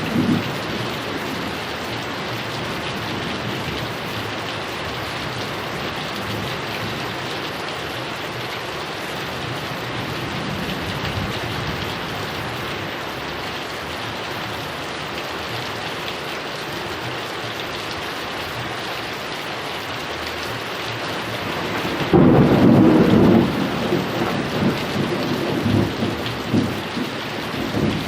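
Heavy rain falling steadily. About 22 seconds in a loud clap of thunder breaks in, and thunder rolls on unevenly after it.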